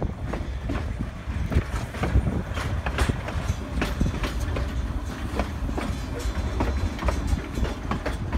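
Cumbres & Toltec narrow-gauge train rolling along, heard from aboard: a steady low rumble with irregular clicks and knocks of the wheels running over the rail joints.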